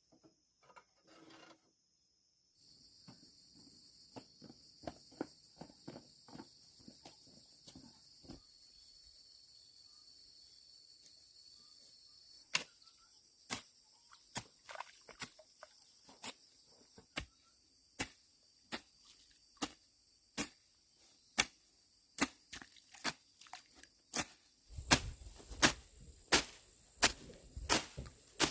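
Insects droning steadily and high-pitched, with a series of sharp knocks or strikes. The knocks grow louder and more regular in the second half, coming about once a second near the end with heavier thuds.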